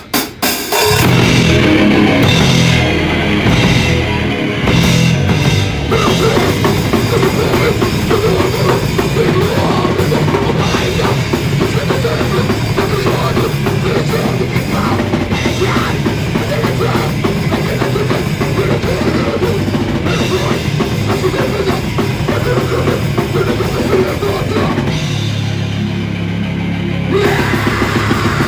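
A live rock band playing loud and fast with a pounding drum kit, kicking in abruptly in the first second; the sound is the rough, crowded sound of a phone recording. The song changes character about 25 seconds in.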